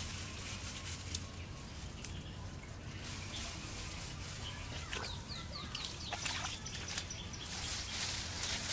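Outdoor forest ambience: a bird gives a quick run of about five short falling chirps about five seconds in, over faint splashing and squelching of hands working in shallow muddy water.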